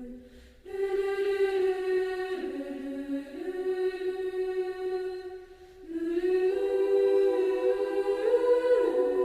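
Background music: a choir singing long, held notes in slow phrases, with short breaks about half a second in and again just before six seconds.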